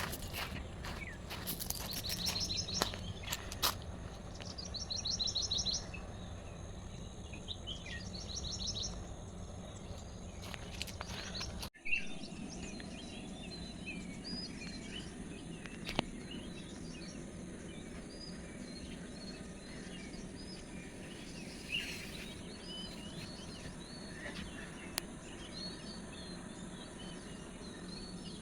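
Small birds chirping and calling over steady outdoor background noise, with repeated trills and a few sharp clicks in the first dozen seconds, then many scattered short chirps.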